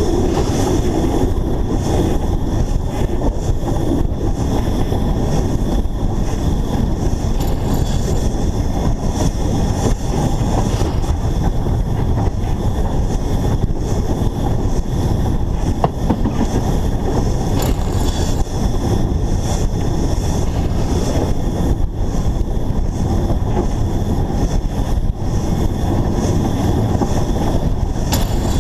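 A narrow-gauge steam locomotive heard from a camera fixed to the engine itself: a loud, steady, dense running noise, with a few sharp knocks now and then.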